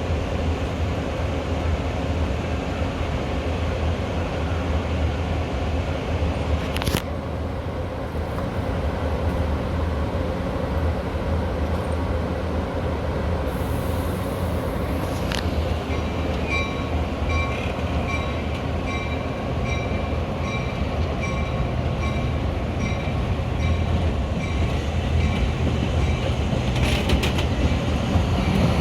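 Metra commuter train with a steady low rumble, two sharp clicks about 7 and 15 seconds in. About halfway through, a bell-like ringing starts repeating at an even pace and runs for several seconds.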